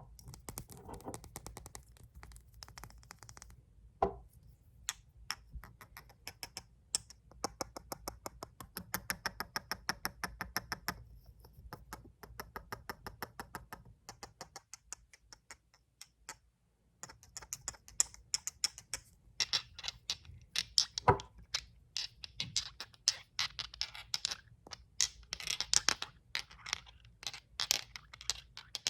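Fingernails tapping and scratching quickly on glass nail polish bottles: rapid runs of small sharp clicks with brief pauses, a couple of louder knocks, growing denser and louder after about 18 seconds.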